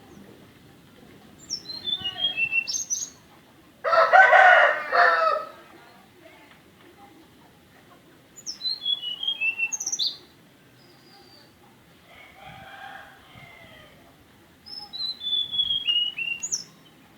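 A tledekan gunung (blue flycatcher) singing three short phrases of clear whistled notes that step down in pitch, spaced several seconds apart. A rooster crows loudly about four seconds in, with a fainter crow around twelve seconds in.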